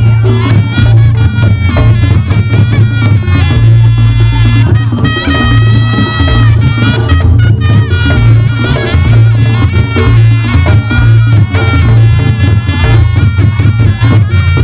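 Reog Ponorogo music played loud: a slompret (reed trumpet) carrying a bending, sustained melody over drums and a heavy, steady bass.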